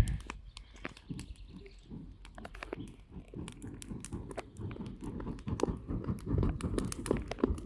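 A person blowing on a charcoal campfire in repeated breathy puffs to get the coals going, with the fire crackling and popping. The puffs come closer together and louder in the second half.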